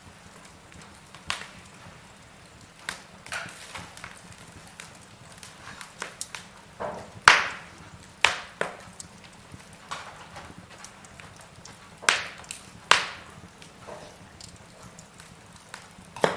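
Wood fire in a fireplace, logs burning with irregular crackles and sharp pops over a faint hiss. The loudest pops come about seven, eight, twelve and thirteen seconds in.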